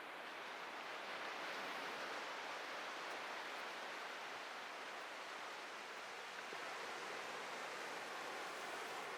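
Atlantic surf breaking and washing up a beach: a steady hiss of waves that swells over the first second or so, then holds.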